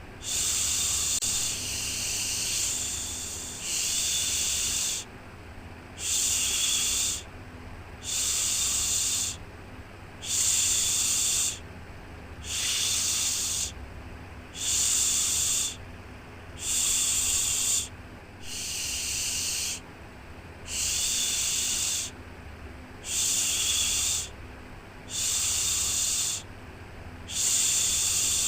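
Repeated 'shhh' shushing for soothing a baby: a steady series of hissy shushes, each about a second long, coming roughly every two seconds, with a faint low hum underneath.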